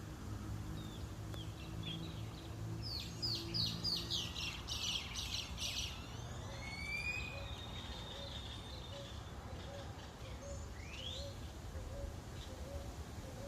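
Wild birds singing: a quick run of sharp descending notes a few seconds in, then a single rising whistle near the end. Beneath them a faint low note repeats about twice a second, over a steady low rumble of wind.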